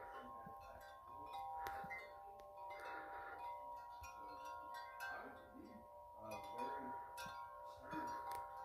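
Wind chime ringing almost without pause as gusts swing it. Several tones are struck again and again and overlap as they ring on.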